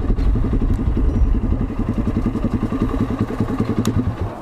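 Z200S motorcycle engine idling through an open pipe with no silencer, a fast, even exhaust beat of about a dozen pulses a second. Its level drops shortly before the end.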